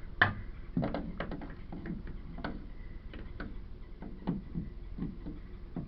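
Irregular small clicks and taps of metal needle-nose pliers working inside a washing machine's plastic drain pump housing, trying to grip debris stuck in the pump.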